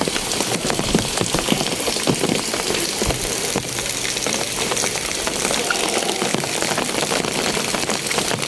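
Heavy rain falling steadily on roofs and ground, a dense hiss full of drop ticks. A faint low hum runs for a couple of seconds in the middle.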